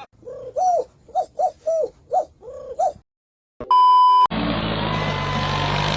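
A run of about seven short coo-like calls, each rising and falling in pitch, over the first three seconds. A brief dead silence follows, then a loud half-second beep at a single pitch, then a steady noisy din.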